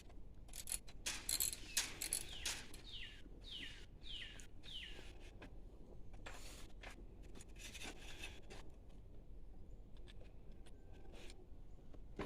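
A bird calling a run of about five quick notes, each sliding downward in pitch, with scattered short clicks around it.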